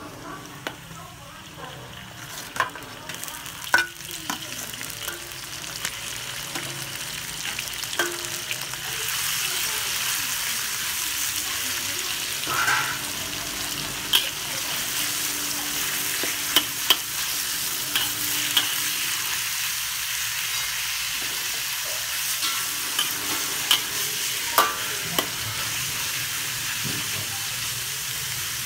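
Garlic and minced meat frying in hot oil in a wok: a steady sizzle that grows louder about nine seconds in. A metal spatula stirring the meat clicks and scrapes against the wok now and then.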